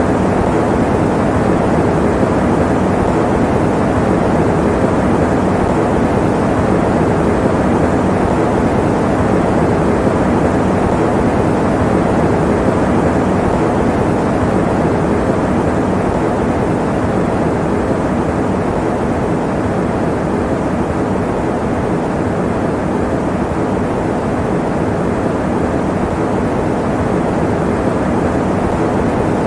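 Electric fan running steadily: an even, unbroken rushing noise, heavy in the low and middle range with little top end.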